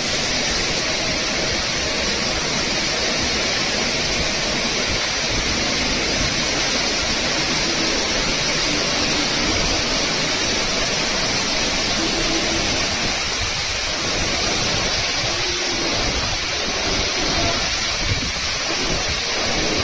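Heavy cyclone rain pouring down in a steady, dense hiss.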